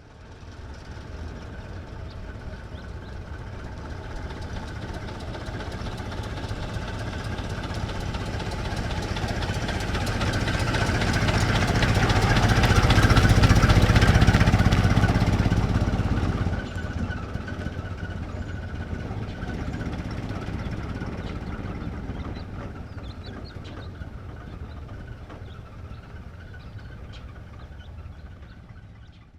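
1924 Ford Model T stake bed pickup's four-cylinder engine driving slowly past: it grows louder to a peak about halfway through, then fades away.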